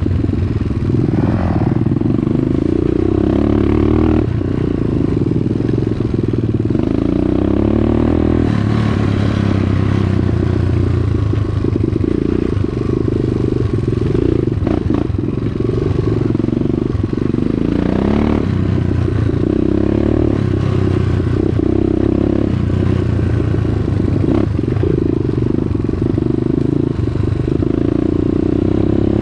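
Dirt bike engine running while riding, its revs rising and falling several times, with the pitch climbing sharply about 2, 8 and 18 seconds in.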